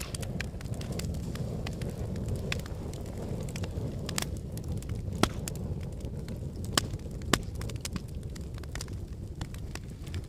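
Wood fire burning in a fireplace: a steady low rumble of flames with frequent sharp crackles and pops from the burning logs, a few louder snaps around the middle.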